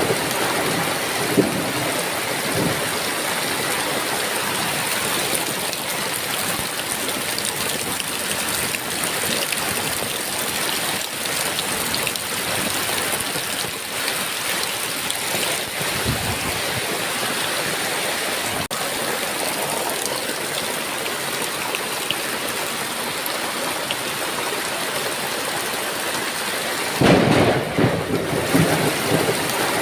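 Heavy rain falling steadily, with thunder rumbling low in the first couple of seconds and a louder roll of thunder near the end.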